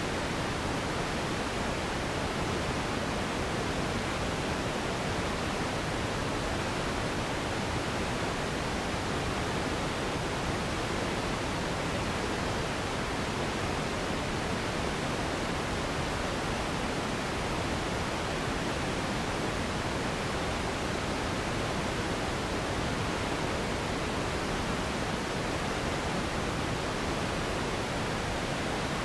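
Steady pink noise, an even hiss, level and unchanging, with no breaks or events.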